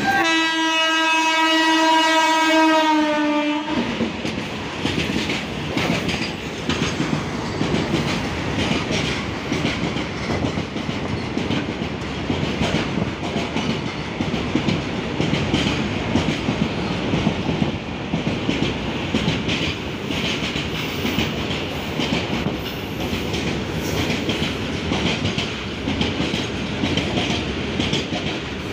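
An Indian Railways electric freight locomotive sounds one long, steady horn blast lasting nearly four seconds, which cuts off sharply. A long freight train of open box wagons then rolls past close by, its wheels clattering over the rail joints.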